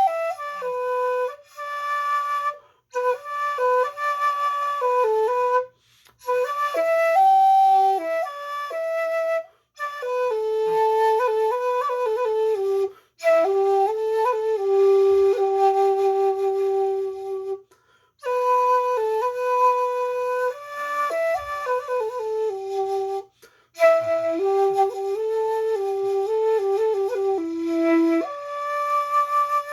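A 1.6-shaku shakuhachi (尺六) plays a slow melody. It moves through held and stepping notes in phrases separated by short gaps.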